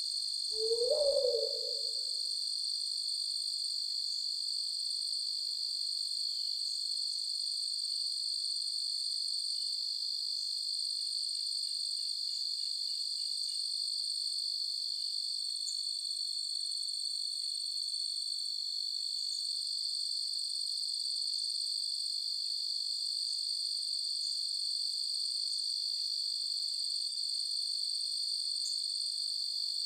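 Steady, unbroken chorus of crickets chirping, with a single low owl-like hoot about a second in.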